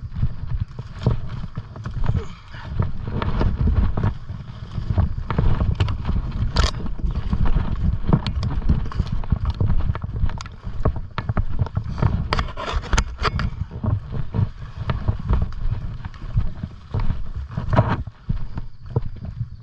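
Footsteps and crunching of dry vegetation as someone walks steadily through a field, with many sharp clicks and rustles over a heavy, uneven low rumble on the microphone.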